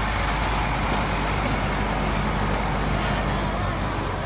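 Heavy truck engine running steadily with a low, even hum.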